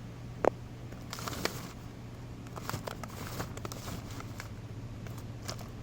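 Cardboard fireworks boxes being handled: a sharp knock about half a second in, then crinkling rustles and scattered small clicks, over a steady low hum.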